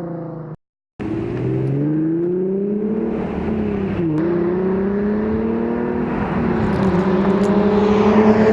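Exhaust of a 2009 Infiniti G37S's 3.7-litre V6, fitted with resonated test pipes and a 370Z Nismo exhaust, accelerating hard with the pitch rising, dipping about four seconds in at a gear change, then pulling again. The sound cuts out for a moment near the start.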